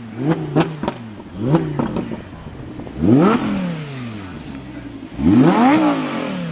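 A car engine is revved four times from idle, each rev rising in pitch and falling back. The two short blips come near the start, and two bigger revs come about three and five seconds in. Sharp cracks sound on the way down after the early blips.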